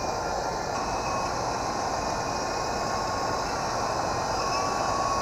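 Toy RC helicopter's small electric motors and rotors running steadily in flight: a steady whirring rush with a thin, even whine that comes in about a second in.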